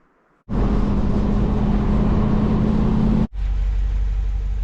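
Ram 2500 Power Wagon pickup truck driving: steady engine and road noise with a low hum. It starts about half a second in, cuts off abruptly about three seconds in and resumes at once, slightly quieter.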